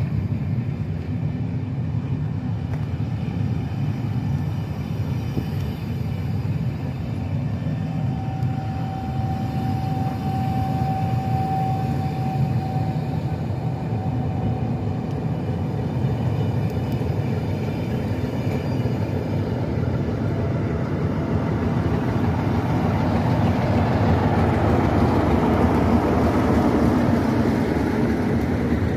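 Locomotive-hauled passenger coaches rolling past with a steady low rumble of wheels on rail, and a thin high squeal for a few seconds about a third of the way in. Near the end the Class 47 diesel locomotive's Sulzer 12-cylinder engine grows louder as it draws level.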